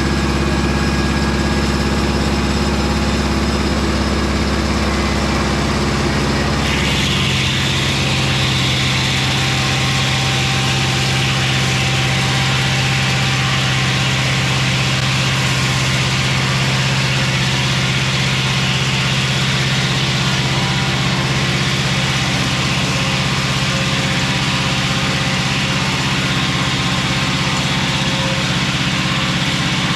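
Mobile Dimension circular-blade sawmill's engine running steadily. About six to seven seconds in the sound changes: the low hum shifts and a higher hiss grows stronger.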